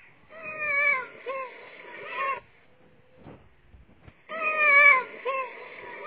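Ring-tailed lemurs giving meow-like calls in two bouts about two seconds apart. Each bout has three calls, opening with a longer, slightly falling call.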